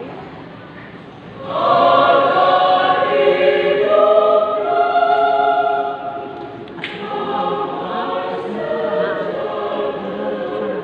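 Church choir singing sustained chords in several parts, swelling loud about a second and a half in and falling softer again about six seconds in. A brief click sounds just before seven seconds.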